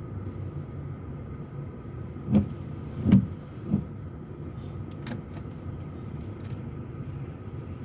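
Steady road and engine rumble heard inside a moving car's cabin, with three short low thumps in quick succession a couple of seconds in.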